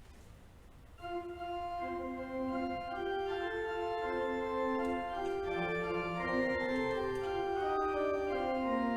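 Organ music: held chords begin about a second in, with notes sustained and shifting slowly from chord to chord.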